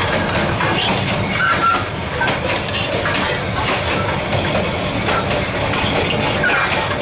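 Train running, heard from the open gap between two carriages: steel wheels rolling on the rails in a steady rumble with irregular clattering and knocks, and a few short squeals.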